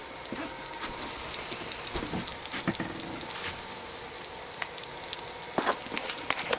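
Tuna and egg omelette sizzling in a frying pan, a steady hiss with small crackling pops, and a few brief knocks.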